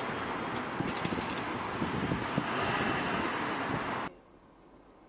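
Road and wind noise of a moving vehicle picked up by a dashcam, with a few light knocks, cutting off suddenly about four seconds in.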